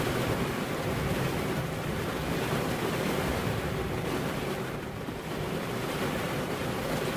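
Steady rain falling, an even wash of noise that eases slightly about five seconds in.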